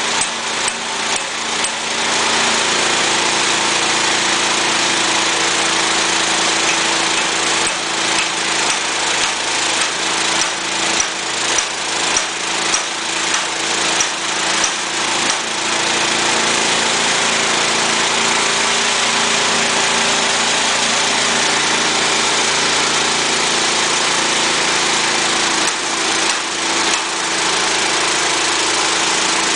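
Small petrol engine running steadily while it drives an extruder. A stretch of even, rhythmic pulsing, about one and a half beats a second, comes in the middle and again briefly near the end.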